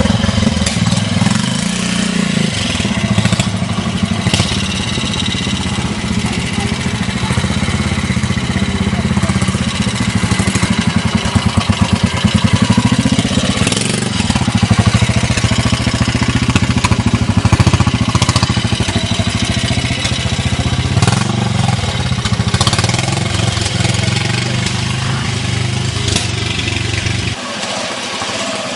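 Classic trials motorcycle engine running at low revs, the revs swelling and easing as the bike is ridden through a section. Its low engine note drops away abruptly near the end.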